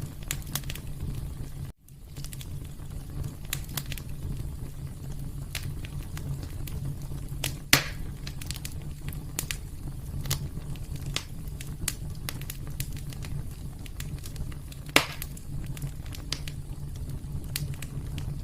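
Wood fire burning in a fireplace: a steady low rumble of flames with frequent small crackles and two louder pops, one a little under halfway through and one near three-quarters.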